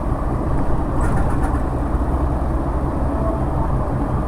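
Cabin noise of a moving MAZ-107.466 city bus: its Mercedes-Benz OM 906LA inline-six turbodiesel running under a steady low road rumble, with a few faint rattles about a second in.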